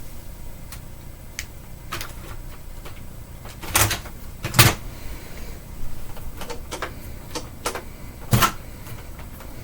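Scattered clicks and knocks, as of things being handled, with louder thuds about four, four and a half and eight and a half seconds in, over a faint low hum.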